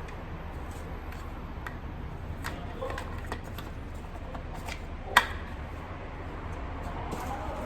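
Light clicks and taps as valve lifters are handled and fitted into the V8 engine, with one sharp metallic click about five seconds in, over a steady low hum.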